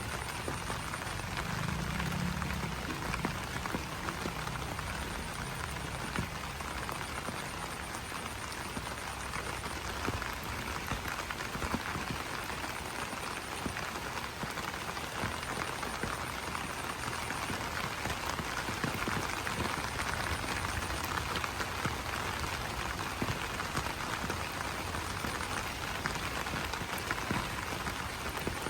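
Rain falling on banana leaves: a steady, dense patter of drops.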